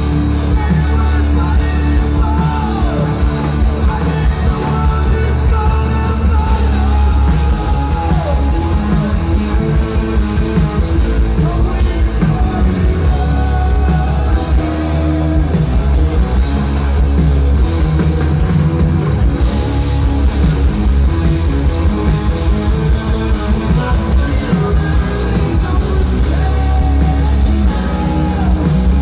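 Live heavy rock band playing loudly, with distorted electric guitars, bass, drums and singing.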